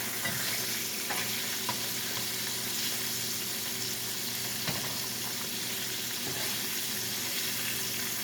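Salmon pan-frying in oil in a skillet: a steady sizzle with a few small pops and spits.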